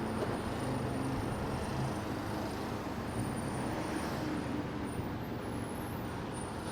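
Steady engine hum and road noise from riding a motorcycle through city traffic, the motorbike's engine mixed with the cars around it.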